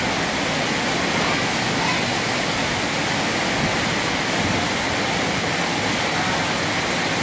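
Heavy rain pouring onto a flooded street, a steady hiss of drops splashing into standing water.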